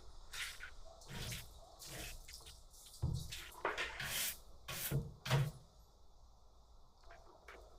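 Irregular wet squelches and drips with a few soft thuds, grapes being crushed for wine.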